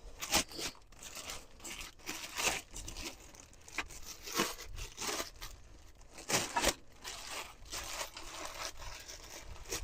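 Packaging of a new wheel hub and bearing assembly being torn and crinkled open, with rustling, scraping and scattered clicks as the part is unpacked and handled.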